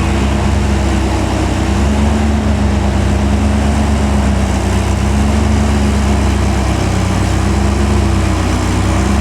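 Old Toyota DA100 truck's diesel engine running steadily with a constant low hum.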